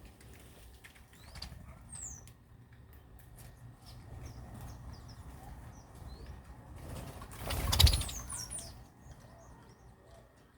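Birds flapping their wings, loudest in a flurry about eight seconds in, with short high calls scattered through.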